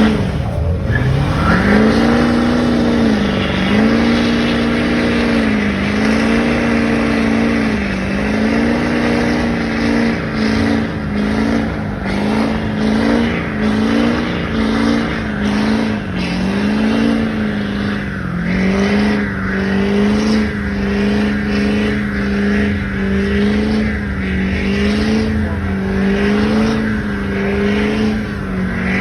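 A truck engine is revved up hard and held at high revs during a burnout, its pitch dipping and recovering about every two seconds as the throttle is worked, over a steady hiss from the spinning tires.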